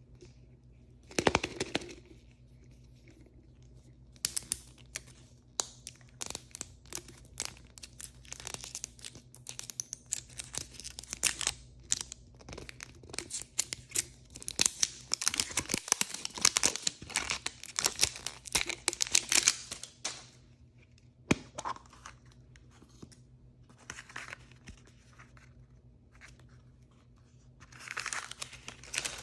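Blind bag packaging being torn open and crinkled by hand: a short tear near the start, then a long run of dense crinkling and tearing, a quieter stretch, and more crinkling near the end.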